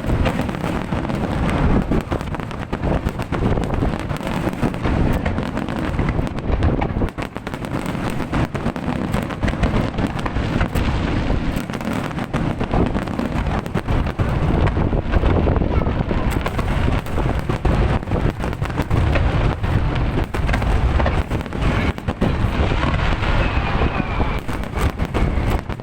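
Aerial fireworks display: a dense, unbroken run of bangs, many to the second.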